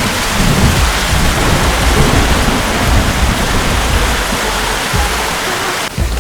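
Heavy rain falling, with low rumbles of thunder. The sound changes abruptly just before the end.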